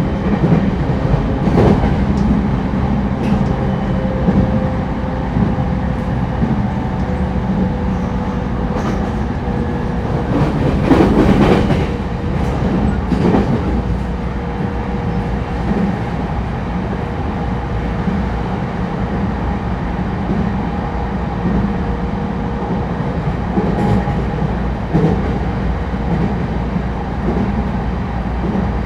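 Running sound inside a JR East E231-1000 series electric train car at speed: a steady rumble with a constant hum, and the wheels knocking over rail joints now and then, a cluster of clacks about a third of the way through and two more near the end.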